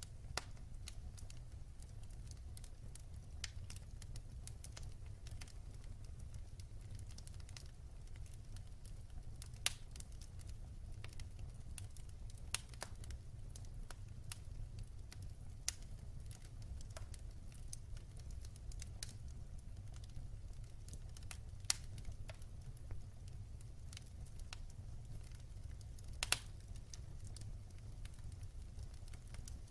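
Wood fire burning in a fireplace: a low steady rumble of flames with scattered sharp crackles and pops from the burning logs, a few louder snaps among them.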